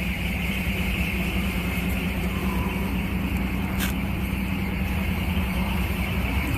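Truck engine idling steadily, with one sharp click about four seconds in.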